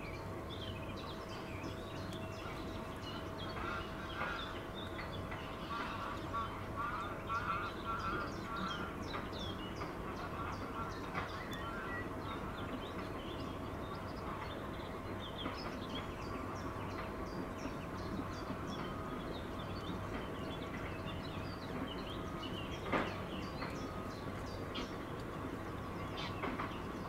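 Wild birds calling, with many short high chirps throughout and a run of quicker, lower chattering calls from about four to nine seconds in. A single sharp click comes a little over twenty seconds in.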